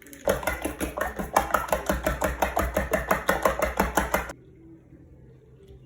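Rapid, even strokes of a kitchen utensil, about five a second for some four seconds, stopping suddenly.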